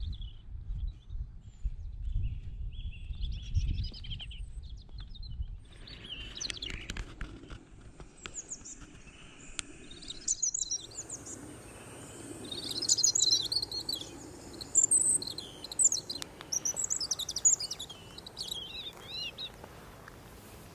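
European robin singing: a run of high, varied warbling phrases with short pauses between them. A low rumble on the microphone fills the first several seconds before the song becomes clear.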